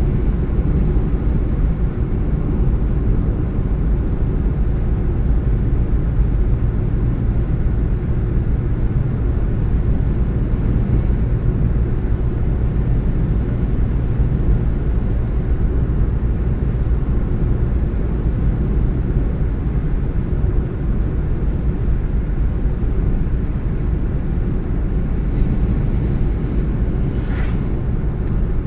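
Car driving along at a steady speed: a continuous low rumble of engine and tyres on the road.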